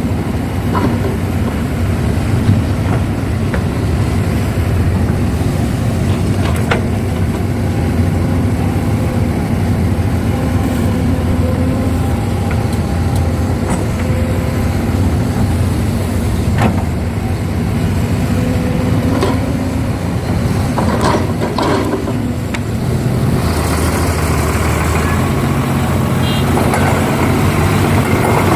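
Heavy diesel engines of an excavator and a dump truck running steadily, with occasional knocks and clanks as the excavator loads soil. About three-quarters of the way through, the sound grows harsher and hissier.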